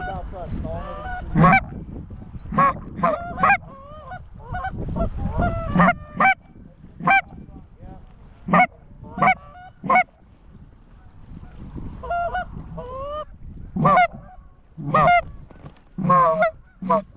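Geese honking: a long string of short, sharp honks and clucks with quieter gaps between, bunched most thickly around six seconds in and again near the end.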